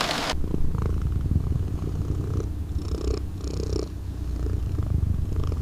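Domestic cat purring steadily, a low continuous pulsing rumble. A wide rain-like hiss cuts off suddenly just after the start.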